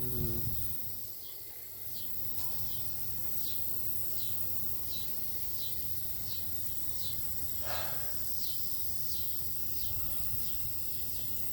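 A cricket chirping steadily, about two short chirps a second, over a low steady hum.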